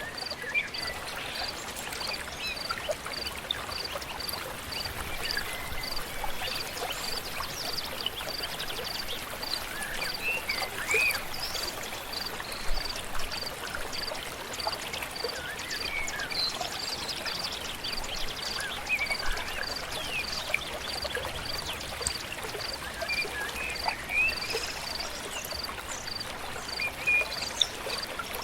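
Stream flowing steadily, with scattered bird chirps and a high, even chirp repeating about one and a half times a second.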